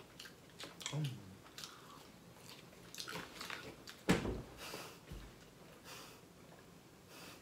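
Quiet chewing and mouth noises of a person eating chicken nuggets, with small scattered clicks. A sharper thump about four seconds in, then drinking from a plastic bottle.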